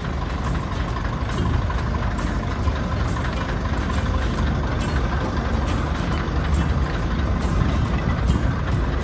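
Diesel engine of a narrow-gauge heritage train running steadily at a low, even rumble.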